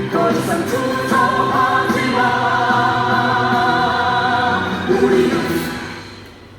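Korean labor song with group vocals singing a long held note over the backing music, then the song fades out near the end.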